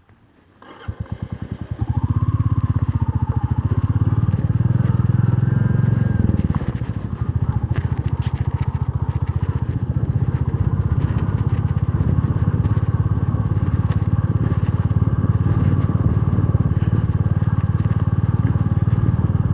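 Motorcycle engine firing in separate beats for about a second, then picking up about two seconds in and running steadily; its note dips briefly around six and a half seconds, then holds even.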